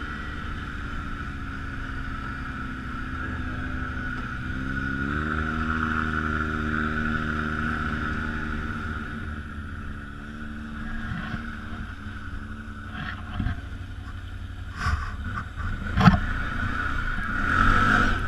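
ATV engine running under throttle on the trail. It picks up revs about five seconds in and eases back around ten seconds. A few sharp knocks come near the end, the loudest about two seconds before the close.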